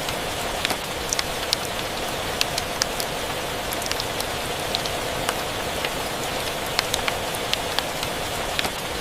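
Steady rain and a crackling wood fire: an even hiss of rain under frequent, irregular sharp pops and crackles.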